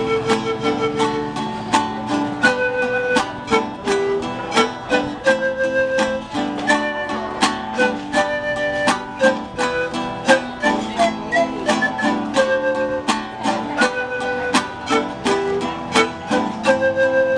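Live music on plucked string instruments: a small group strumming guitars in a steady rhythm with a picked melody over it.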